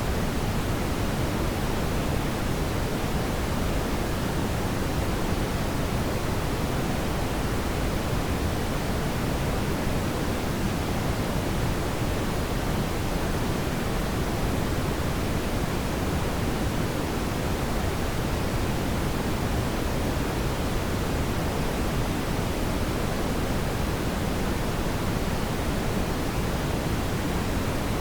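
Steady brown noise: an even, unchanging hiss weighted toward the low end, with no tones or events.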